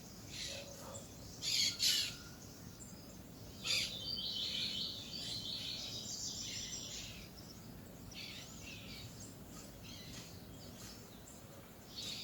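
Peach-fronted parakeets calling with several short, harsh screeches in the first four seconds, then a longer buzzy call and fainter scattered calls.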